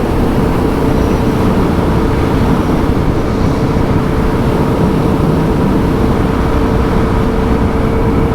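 Suzuki DR650's single-cylinder engine running steadily while the bike is ridden at cruising speed, under constant wind and road noise.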